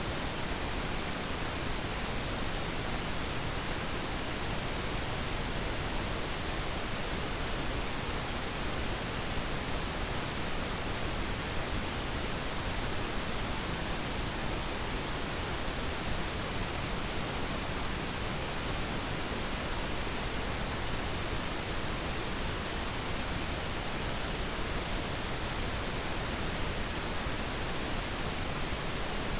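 Steady pink noise: an even, unchanging hiss with no other sounds.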